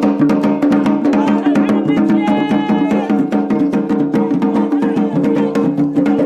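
Yemeni wedding procession music: a fast, steady beat on drums and marafi' hand drums over a sustained melody line. A held higher note sounds about two seconds in.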